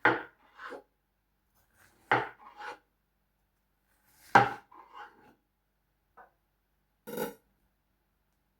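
A kitchen knife chopping through watermelon: four sharp chops about two seconds apart, each followed by one or two smaller knocks.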